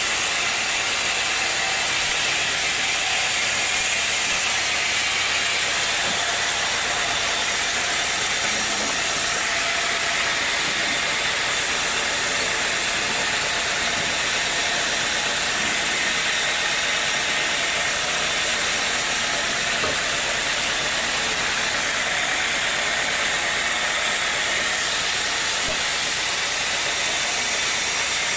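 Sawmill machinery running steadily: a continuous, even hissing noise with no pauses or impacts.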